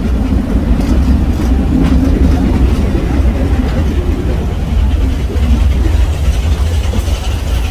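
Nilgiri Mountain Railway train climbing a steep grade, heard from an open coach window: a loud, steady rumble of the coaches and wheels on the rails.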